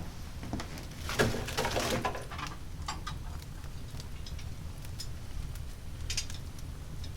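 Oak hardwood fire crackling, with scattered sharp pops and a denser burst of crackles about a second in, over the low steady rumble of the flames.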